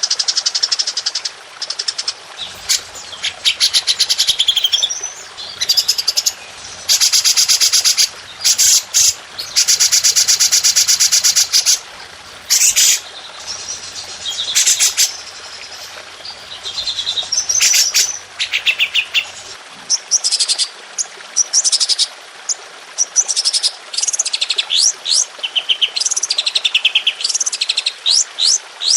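Recorded songbird song for tutoring caged birds: long, dense runs of rapid-fire high notes and trills, broken by short pauses between phrases.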